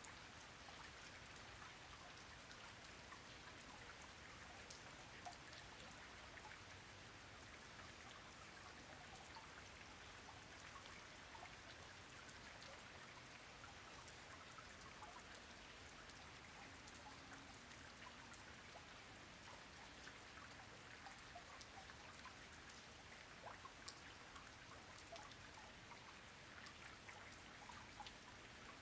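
Faint, steady rain: an even hiss of falling rain dotted with many separate raindrop ticks.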